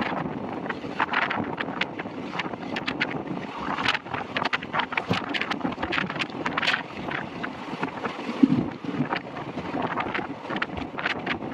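Passenger train under way, heard from a coach window: wind buffeting the microphone over the running noise of the wheels on the rails, with irregular sharp clicks and knocks throughout.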